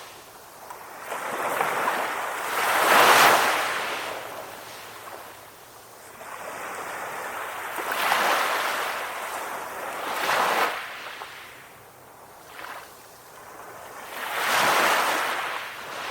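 Calm ocean waves breaking and washing in, the sound swelling and fading away in four surges, the loudest about three seconds in.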